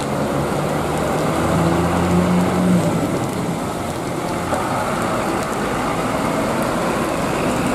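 A large vehicle engine, most likely a bus, runs with a low hum that swells for a moment about two seconds in, over a steady patter of rain.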